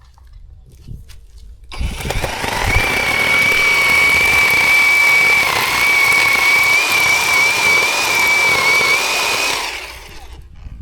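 Zhipu 48V cordless electric chainsaw running and cutting wood for about eight seconds, with a steady high whine. It starts about two seconds in and stops near the end.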